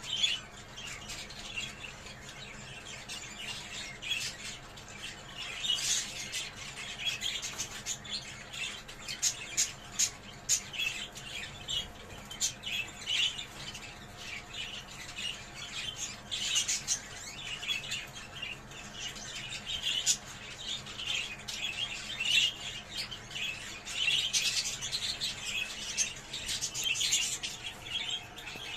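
A group of budgerigars chattering and warbling without pause, full of quick chirps and sharp squawks: the excited chatter played to bring budgies into breeding condition.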